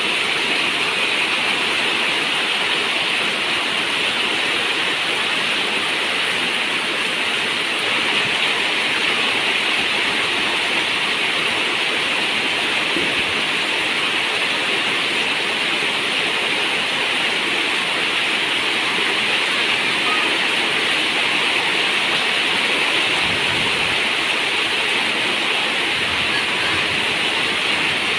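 Steady heavy rain, an even dense rushing hiss with no separate drops standing out, and a thin steady high tone above it.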